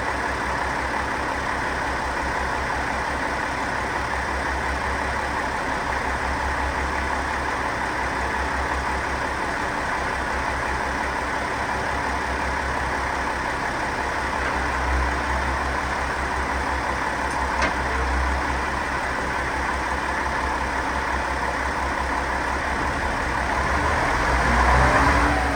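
KiHa 40 diesel railcar's engine idling steadily with a low throb. Near the end it begins to rev up, rising in pitch and getting louder.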